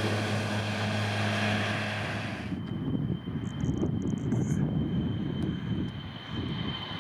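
Jet airliner engine noise. About two and a half seconds in, a sudden cut brings a low rumble with a steady high-pitched engine whine: the Airbus A320's engines at its takeoff run.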